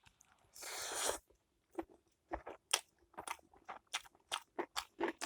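A person chewing a mouthful of spicy hot pot noodles close to the microphone: one short breathy noise about a second in, then wet mouth clicks at about four a second.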